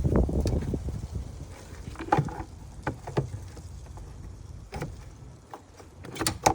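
Plastic air-intake vent duct being handled and fitted back into place in a car's engine bay: a low rustling rumble in the first second or so, then a scattered series of short plastic clicks and knocks.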